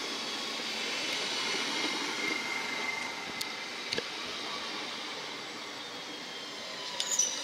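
DB Class 440 (Alstom Coradia Continental) electric multiple unit running past on the platform track: steady rolling noise of wheels on rail, with a faint high whine and a couple of clicks. A burst of sharp sounds comes near the end as the last car goes by.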